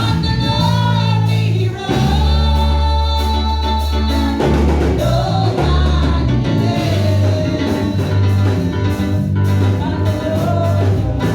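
Live gospel music: a singer holding long, sliding notes over a band with a strong bass line and drums.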